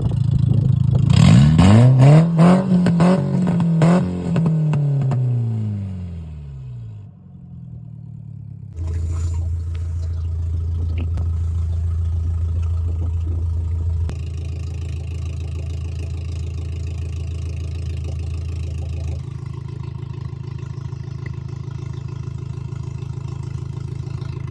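2000 Volkswagen Beetle with its catalytic converter removed, revved up and back down with sharp crackles and pops from the exhaust at the top of the rev. After a short lull it settles into a steady engine drone.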